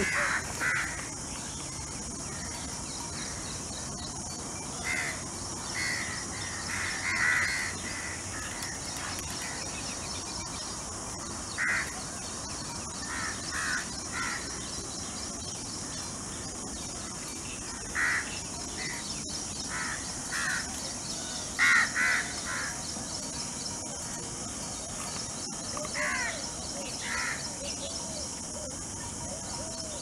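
Birds calling in short repeated calls, often in twos or threes, every few seconds over a steady high-pitched drone.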